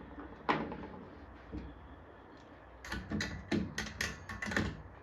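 Sharp clicks and taps of small tools or parts being handled: one about half a second in, then a quick run of about six in the last two seconds.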